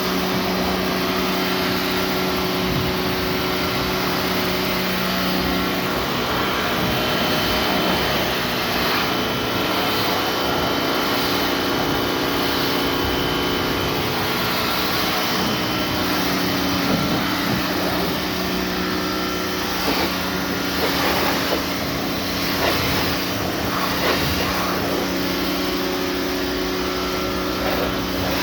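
Pressure washer running, a steady motor hum under the hiss of a water jet spraying.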